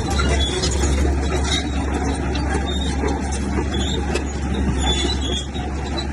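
Komatsu bulldozer's diesel engine running steadily under load, with a deep low rumble and a few scattered knocks.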